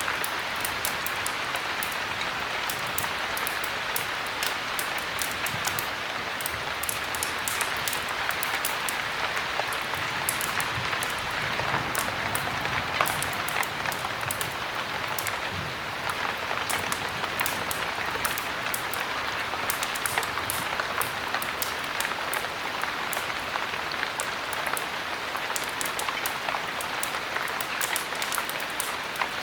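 Steady heavy rain, a dense even hiss, with frequent sharp little crackles and ticks scattered over it.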